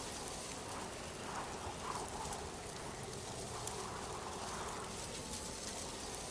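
A steady, even hiss like rain, with a few faint short sounds in the first couple of seconds.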